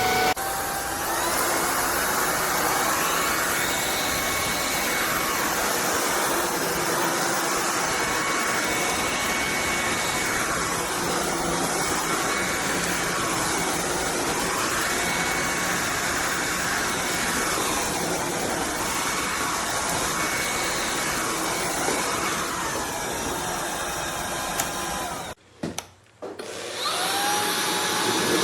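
Shark cordless stick vacuum running steadily, its motor whine swaying up and down in slow waves every couple of seconds. Near the end it cuts out for about a second, then starts again and spins back up.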